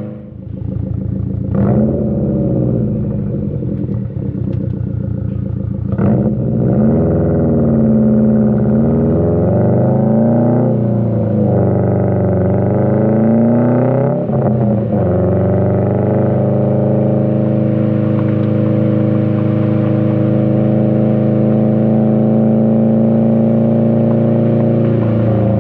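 2020 Subaru WRX STI's turbocharged 2.5-litre flat-four engine heard through an AWE Track exhaust while driving. The revs drop sharply at the start, then rise and fall through the gears, with a sharp crack about two seconds in and another about six seconds in. From about sixteen seconds on the engine settles into a steady cruising drone.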